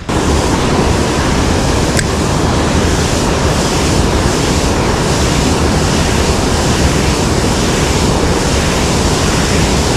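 Loud steady rush of creek water close to the microphone, with a single sharp click about two seconds in.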